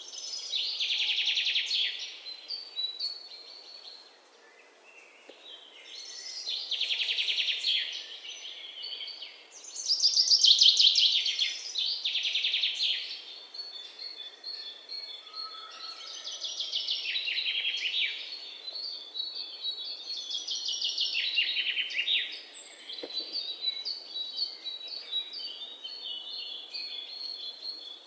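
Songbirds singing: loud trilled song phrases of about two seconds each, repeated every few seconds. A thinner, quicker twittering runs under them through the second half.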